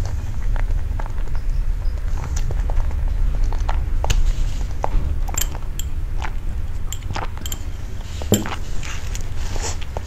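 Close-miked chewing of a mouthful of cream cake: scattered wet mouth clicks and smacks over a low rumble, with sips and swallows from a glass of drink partway through.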